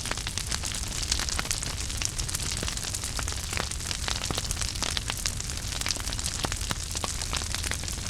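Wood fire burning in a fireplace: a steady low rumble and hiss with frequent irregular crackles and pops from the burning wood.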